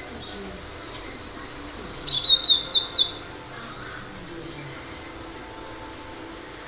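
Cinereous tit (gelatik batu) singing: a quick run of about five short, sharp notes about two seconds in, over faint high chirping that runs throughout.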